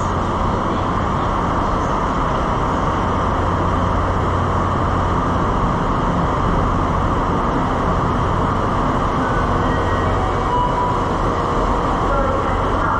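Steady hum and rushing noise of a Taiwan Railway passenger train standing at the platform, its equipment running.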